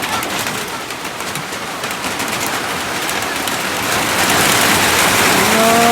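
Heavy rain pouring down, a loud steady hiss that gets louder about four seconds in. A short pitched call sounds briefly at the very end.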